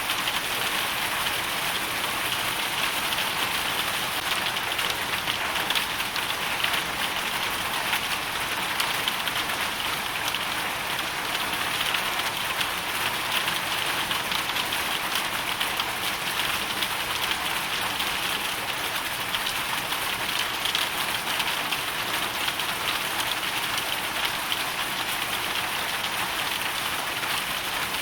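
Hailstorm: a steady, dense patter of hailstones and rain striking a surface, many small impacts running together.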